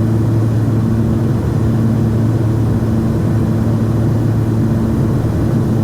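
Cessna 340's twin turbocharged six-cylinder piston engines and propellers droning steadily on final approach.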